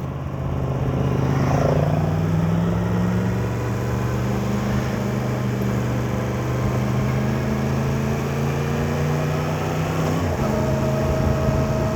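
Yamaha MT-10 motorcycle's inline-four engine running steadily under light throttle on the move, with wind rush. Its pitch rises a little over the first couple of seconds, holds, then changes about ten seconds in.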